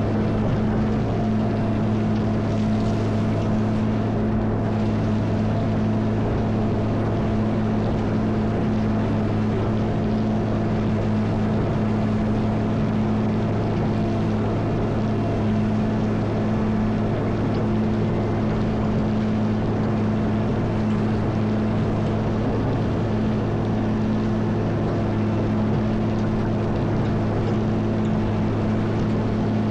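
Caterpillar 140M motor grader's diesel engine running at a steady speed: a constant, even drone with no revving.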